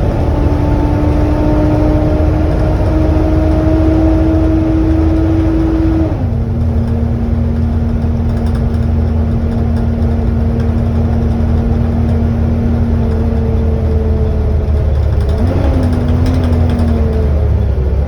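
Volvo B7TL double-decker bus under way, its low drivetrain rumble overlaid by a loud hoover-like whine. The whine climbs slowly, drops sharply in pitch about six seconds in, and holds steady before wavering and stepping down again near the end.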